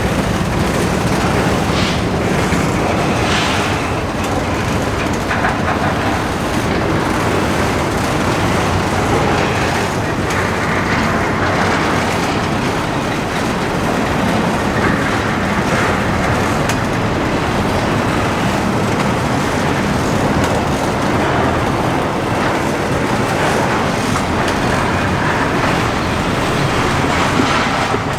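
Freight train cars rolling by, a steady rumble of wheels with clickety-clack over the rail joints.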